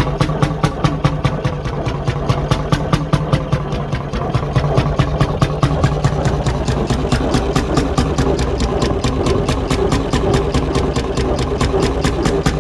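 1957 McDonald Type YD two-stroke hot-bulb engine running steadily, its firing strokes making an even, rapid beat. The governor springs are set too loose.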